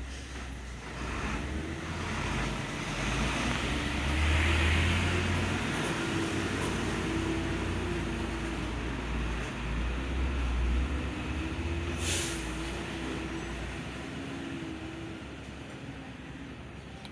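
Honda 125 motorcycle's single-cylinder four-stroke engine running with a low rumble. It gets louder a few seconds in, then eases off and settles toward the end.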